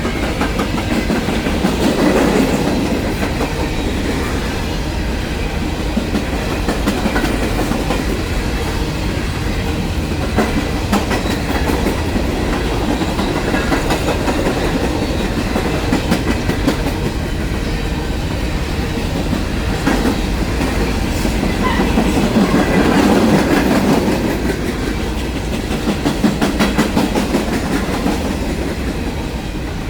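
Norfolk Southern freight train cars rolling past, a steady rumble of steel wheels with repeated clickety-clack over the rail joints. It swells louder twice, near the start and about three-quarters of the way through.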